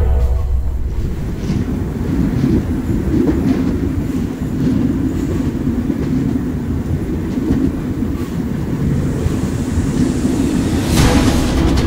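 Wheels of a steam-hauled passenger coach running along the track: a steady rumble with faint clicks over the rail joints. About eleven seconds in, a sharper, louder clatter sets in.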